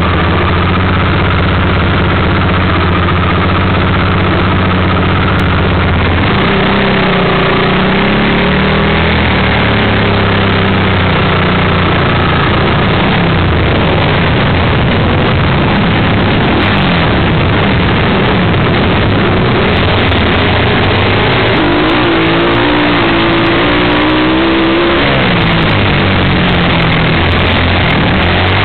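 Vintage flat-track racing motorcycle engines, loud and heard up close from on board. The engine runs at a steady pitch for the first several seconds, then revs up and down repeatedly, with rising surges through the second half as the bike races into the turns.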